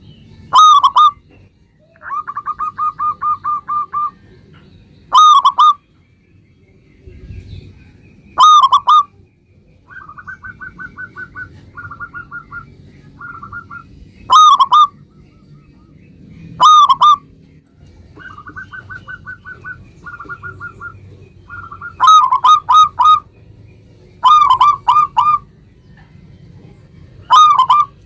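Zebra dove (perkutut) cooing: loud coo notes every few seconds, some in quick runs of three or four, between softer rapid trains of short staccato notes.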